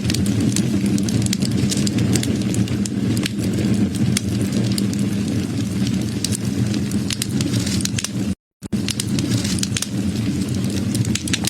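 Wood fire burning, with frequent sharp, irregular crackles and pops over a steady low rumble. The sound cuts out completely for a split second about eight seconds in.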